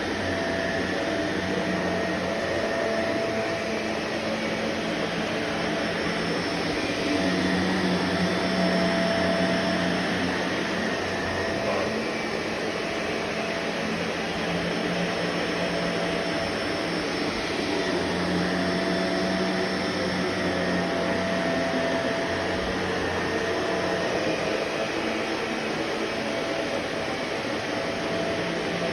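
Vacuum cleaner running continuously, a steady motor hum and rush of air that grows a little louder and eases back a few times.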